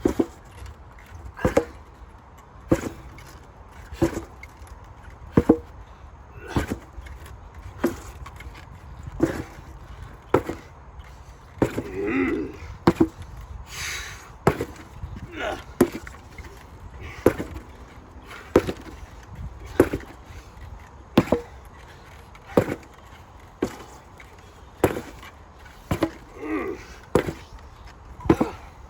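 An 8 lb sledgehammer striking a target again and again in a steady drill rhythm, about one heavy blow every 1.3 seconds.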